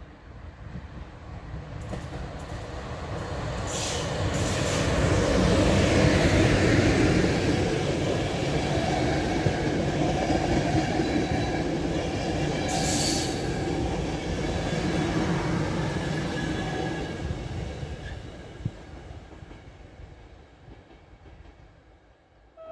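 Locomotive-hauled passenger train passing at speed, its coaches rumbling on the rails. The sound builds over the first few seconds, holds for about ten seconds as the coaches go by, then fades away as the train recedes. Brief high-pitched screeches cut in a few seconds in and again about halfway through.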